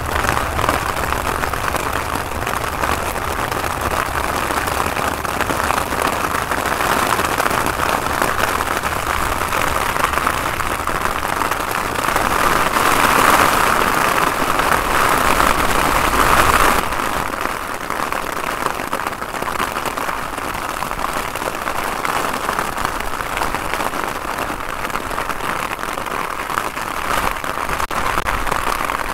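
Heavy rain pouring down, a steady hiss, with the low rumble of an airliner rolling out after landing underneath it in the first part. The noise grows louder a little past the middle and drops suddenly about two-thirds of the way through.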